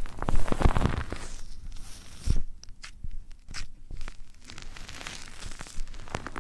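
Close-miked rubbing and scratching at an ASMR microphone's ear: irregular crackly scrapes and sharp taps, densest in the first second.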